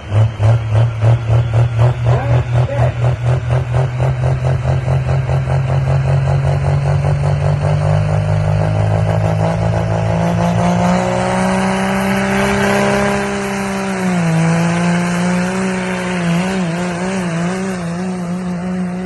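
Cummins diesel in a Ford Super Duty pulling truck with a 2.6 smoothbore turbo, running hard. Its note throbs at first, the pulses quickening until they merge into a steady, climbing engine tone. About 14 seconds in the tone drops suddenly, then wavers up and down.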